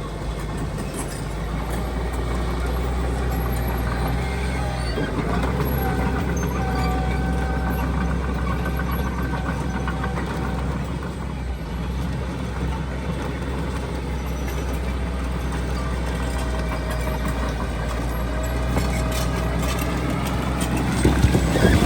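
Heavy diesel earthmoving machinery running steadily, a deep engine drone with a wavering whine above it. A burst of metallic clanks comes near the end.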